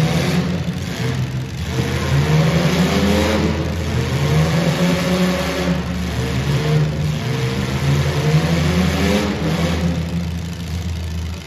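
Engines of compact demolition derby cars revving hard, their pitch rising and falling again and again as they accelerate and back off, several engines at once.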